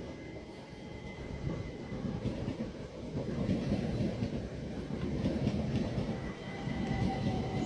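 Train rumbling along the track through the station, growing louder from about a second and a half in, with a faint steady high whine over it. A steady squealing tone comes in near the end.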